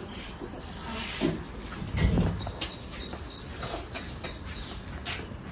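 A small bird chirping in quick, even runs of high chirps, about five a second. A dull thump about two seconds in is louder than the chirps.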